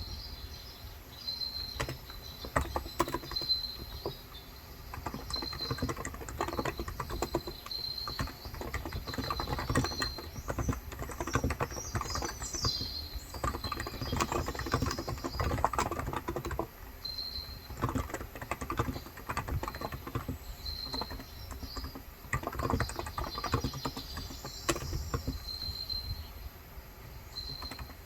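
Typing on a Cox Endeavor electrostatic capacitive (Topre-style) tenkeyless keyboard with light 35 g switches, in quick runs of keystrokes broken by a few short pauses.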